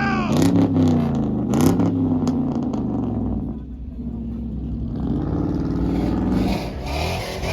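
Pickup truck engine revved through its exhaust in several quick throttle blips, each rising and falling in pitch, in the first couple of seconds. It then drops back and settles into a steadier lower run.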